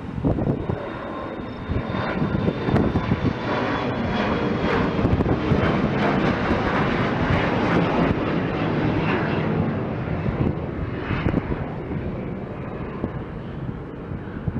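An airliner's engines running loudly as it passes, a steady rush with a faint high whine that falls slowly in pitch, with wind buffeting the microphone.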